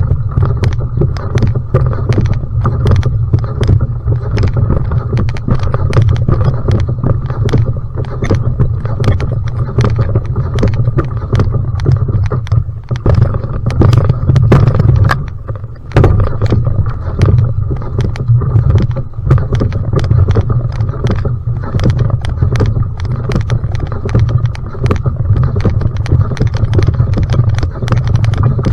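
Va'a outrigger canoe paddled flat out in a sprint: repeated paddle strokes and water splashing over a heavy rumble of wind on the microphone.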